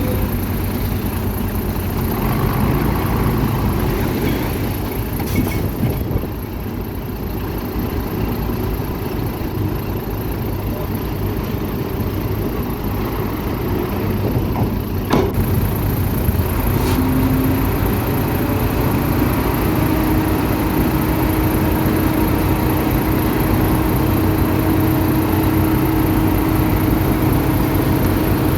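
Diesel engine of heavy earthmoving machinery running steadily, with a sharp knock about halfway through and a steady low whine that joins in the last third.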